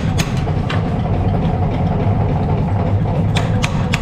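A steady low rumble, with sharp taps such as a hammer makes on steel: two near the start, then three in quick succession near the end.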